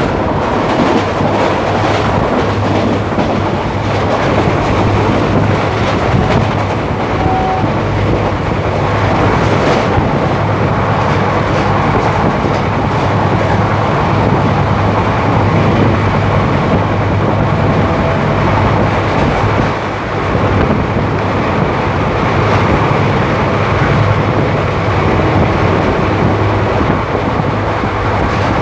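Express train's passenger coach running through at maximum permissible speed, heard at the open coach door: a loud, steady rumble and rattle of wheels on rails.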